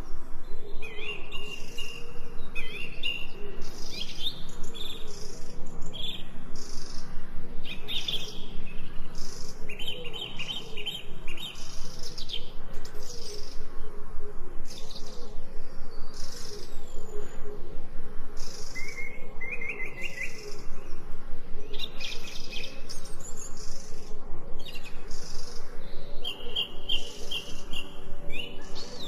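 Songbirds chirping and trilling in short repeated phrases, over a steady low drone.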